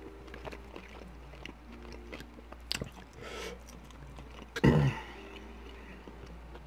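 A person chewing food close to the microphone, with small scattered mouth clicks and one brief louder burst about two-thirds of the way in.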